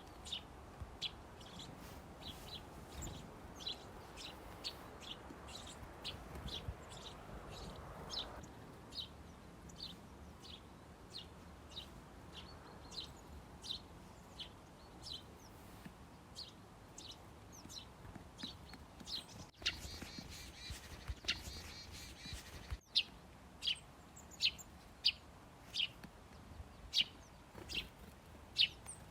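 Small songbirds at a feeder chirping: short, high single chirps repeating about once or twice a second. About two-thirds of the way in, a brief run of more tuneful twittering.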